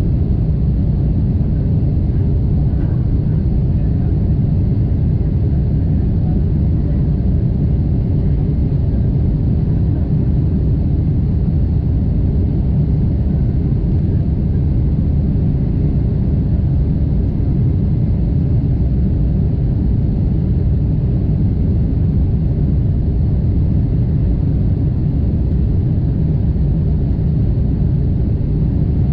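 Steady low rumble inside the cabin of a Boeing 747-8 airliner, with no change in pitch or level.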